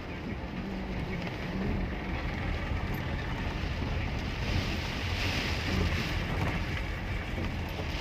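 Car driving in rain, heard from inside the taxi: a steady low rumble of engine and road, with a hiss that grows louder about halfway through.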